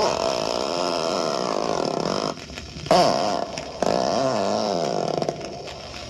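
A rough, wavering sound effect from a haunted-house effects record, its pitch sliding up and down, with a short dip about two and a half seconds in.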